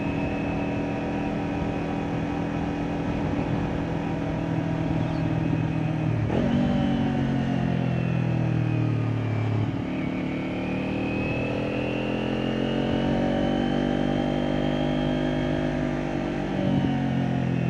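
Kawasaki Ninja 400's parallel-twin engine through an Akrapovic exhaust. It holds a steady pitch for about six seconds, then pulls up through the gears: the pitch drops at each shift, about six seconds in, around ten seconds in and near the end, and climbs again after each one.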